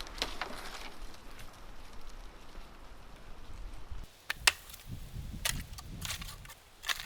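Rustling and shuffling, then from about four seconds in a few sharp wooden knocks, the first the loudest: a wooden stick striking snow-laden tree branches to knock the wet snow off.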